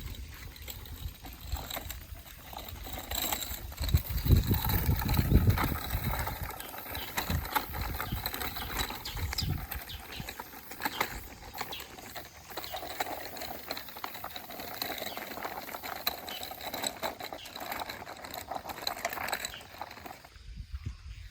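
Footsteps on a walk with an elderly Shiba Inu: paws and shoes on the ground, with irregular clicks and rustling. There are heavier low rumbles about four to six seconds in.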